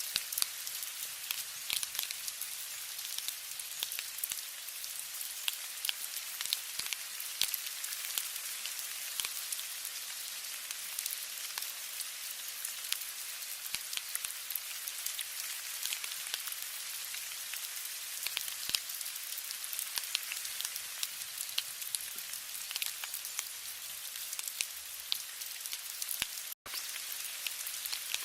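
Steady rain, a dense high hiss full of sharp ticks of individual drops hitting a surface, with a split-second dropout near the end.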